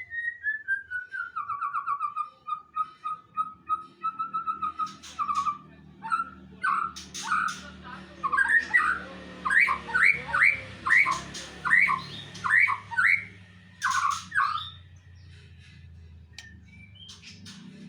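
A songbird singing: a falling run of clear whistled notes, then a string of quick rising notes about two a second, with brief higher chatter near the end.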